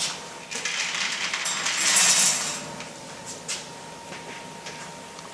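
Wood pellets clinking and pattering into a pellet fireplace's burner, with a short hissing pour about two seconds in and scattered clicks around it.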